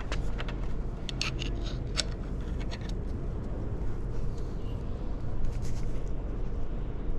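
A few sharp metal clicks and scrapes from hand tools on a RockShox Zeb suspension fork as the air spring is opened to get at the volume spacers, over a steady low hum.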